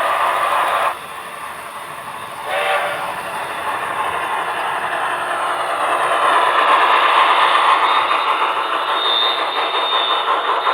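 Model steam locomotives (Tenshodo Quantum HO-scale C62s) running with their onboard sound systems: a short whistle toot about two and a half seconds in, then steam exhaust chuffs mixed with wheel-on-rail running noise, growing louder.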